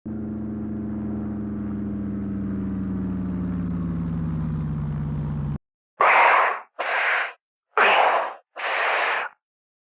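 A propeller aircraft engine drone, its pitch slowly falling, that cuts off abruptly after about five and a half seconds. Then four short noisy rushes follow, about a second apart.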